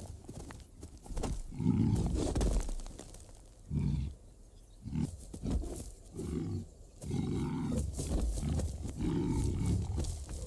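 A large animal growling and grunting in repeated low bursts, about eight of them, each lasting half a second to a second.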